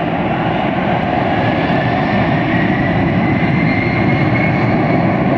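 Boeing 757 twin jet engines at takeoff power as it starts its takeoff roll: a steady loud roar with a thin whine slowly rising in pitch.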